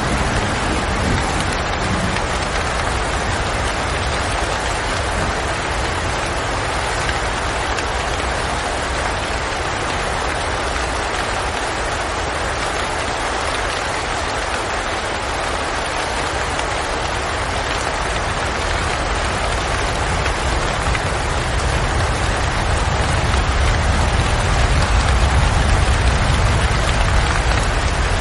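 Steady rain: a dense, even hiss of falling rain. The last of a thunder rumble fades out in the first couple of seconds, and a deep low rumble builds up again near the end.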